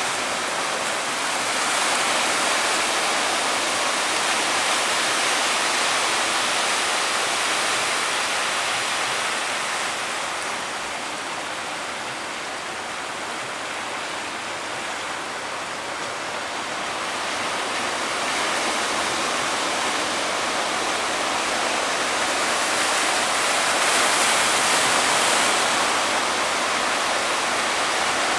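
Big ocean waves breaking and washing in one continuous rush of surf, easing off around the middle and building again near the end.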